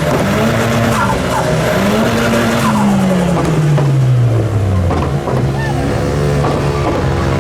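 Car engine revving hard in repeated rises and falls with tyres squealing, then the revs falling away in one long drop to a steadier lower note about halfway through.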